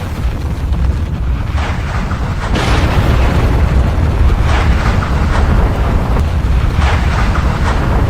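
Volcanic eruption: a continuous deep rumble with a blast-like surge every second or two.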